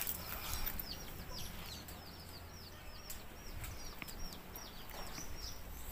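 Birds chirping in the background: a quick run of short, high, falling chirps, several a second.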